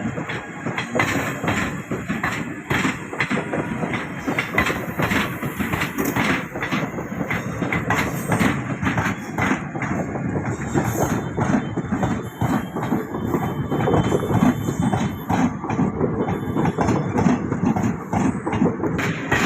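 Ganga Sagar Express passenger train moving along the track, with a continuous rumble and repeated clicks of its wheels passing over the rail joints.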